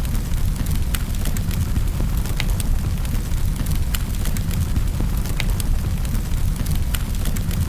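Fire in a fireplace crackling: sharp, irregular pops over a steady low rumble.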